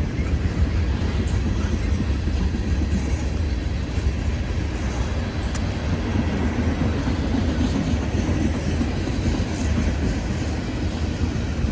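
Norfolk Southern freight train rolling past, a steady rumble of cars and wheels on the rails with a faint clickety-clack.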